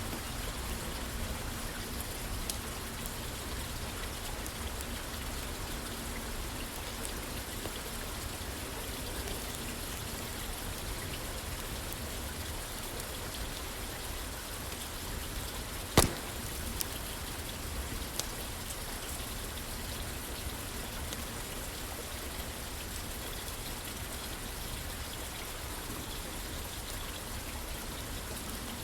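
Steady rain falling on a roof, with a wood fire crackling: one sharp loud pop about halfway through, then two smaller ones, and faint ticks scattered through.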